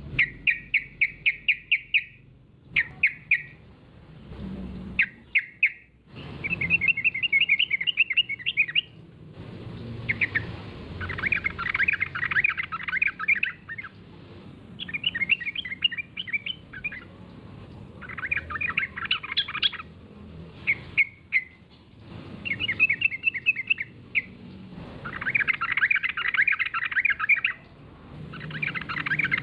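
Yellow-vented bulbul (trucukan) singing energetically, a male in full song, in repeated bursts of rapid chattering notes, each phrase lasting one to three seconds with short pauses between.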